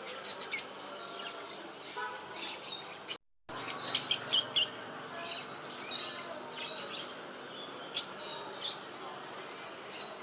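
Pet birds chirping in short, high chirps, in quick clusters near the start and again about four seconds in, with scattered single chirps after. The sound cuts out completely for a moment just after three seconds.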